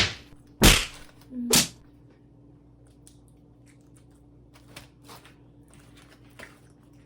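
Close-up eating noises: two sharp, crunchy-sounding noises within the first two seconds, then faint, scattered mouth clicks of chewing.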